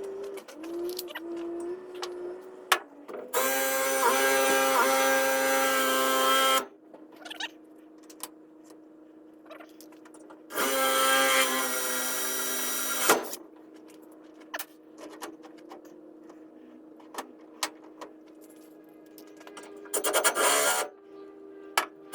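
Electric drill boring bolt holes through a metal mounting piece: two runs of about three seconds each with a steady whine, and a short third run near the end. Clicks and knocks of handling come between the runs.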